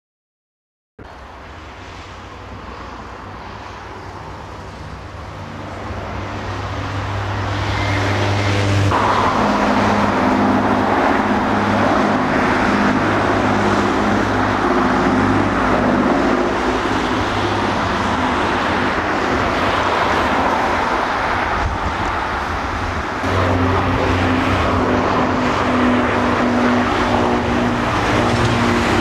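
Piston-engined propeller aircraft droning, growing louder over the first several seconds, then loud and steady, with sudden changes in its tone about 9 and 23 seconds in.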